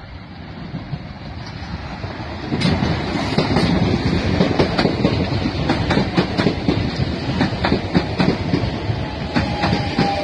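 Passenger train approaching and then running through the station past the platform edge at speed, its noise building gradually and jumping up sharply about two and a half seconds in as the front draws level. Rapid clatter of wheels over rail joints follows as the carriages pass.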